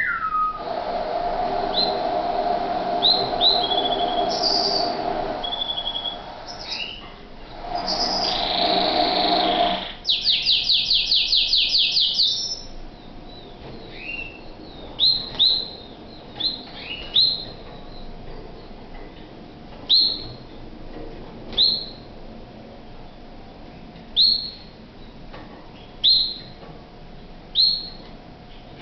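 Domestic canary singing: a long run of dense song, then a fast trill of repeated notes about ten seconds in, then single short chirps every two seconds or so.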